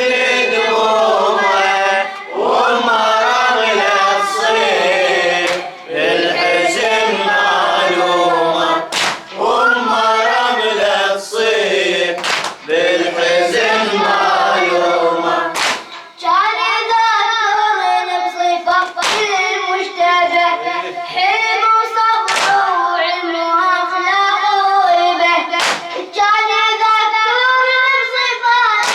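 Young male voices chanting a Shia Muharram latmiya lament, with sharp hand slaps of chest-beating (latm) marking the beat every second or few seconds. About halfway through, a higher boy's voice takes over the chant.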